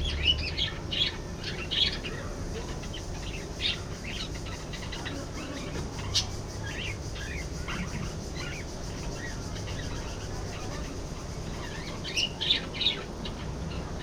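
Budgerigars chirping and chattering, with clusters of quick, short chirps at the start and again near the end and scattered chirps between, over a steady low hum.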